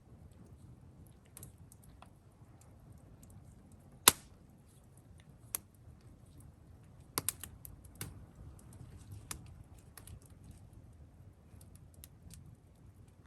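Wood campfire crackling: scattered sharp pops, the loudest about four seconds in and a quick cluster a few seconds later, over a faint low rumble.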